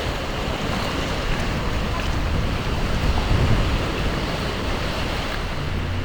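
Ocean surf breaking and washing on the shore, with wind rumbling on the microphone.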